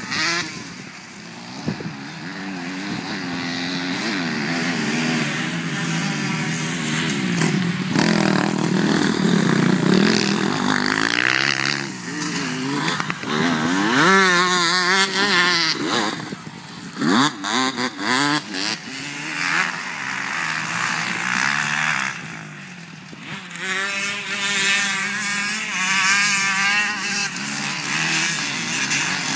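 Motocross bikes racing, several engines overlapping, revving up and down through the gears as they pass. There are choppy throttle blips past the middle.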